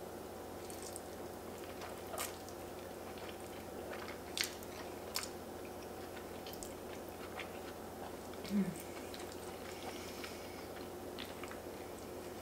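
A person chewing a mouthful of fettuccine, with soft wet mouth clicks from time to time and one short low voice sound about eight and a half seconds in.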